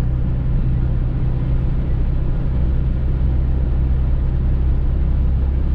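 Steady engine and tyre noise inside a moving car's cabin: a low, even drone with road rumble, no changes in pitch.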